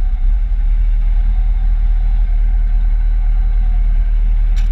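Kawasaki Z750 inline-four motorcycle engine running steadily at an even pitch, with no revving.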